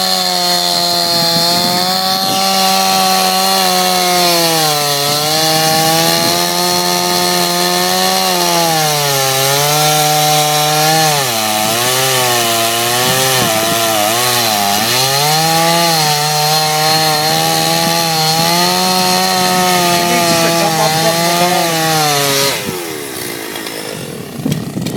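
Two-stroke chainsaw running fast while cutting through a log, its engine pitch sagging again and again as the chain bites under load, most deeply around the middle. About 22 seconds in, the engine winds down and goes quiet.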